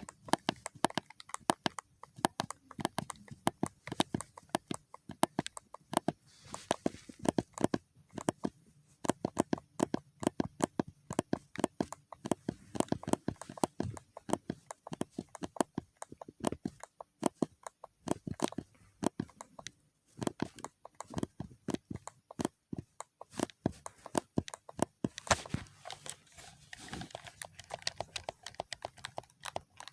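ASMR tapping and clicking on objects: quick sharp taps, several a second, with one louder click about 25 seconds in, after which the taps thin out and soften.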